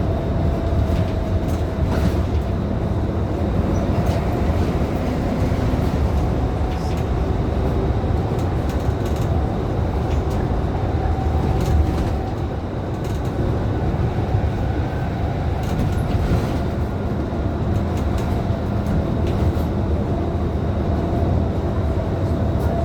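Inside a Scania K310IB city bus under way: the rear-mounted diesel engine drones low and steady under road noise, with scattered light clicks and rattles from the body.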